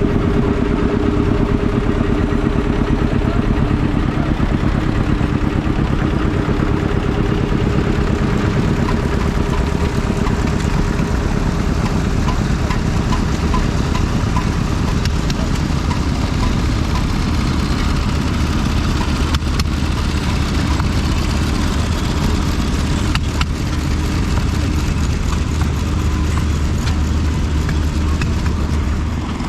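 Vintage stationary engine running steadily at idle, a fast, even mechanical beat with the clatter of its working parts.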